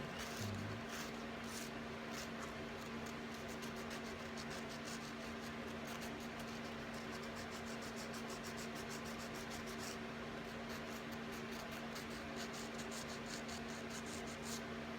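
Faint, quick scratching strokes of a nail file on a cockatoo's claws, over a steady electrical hum.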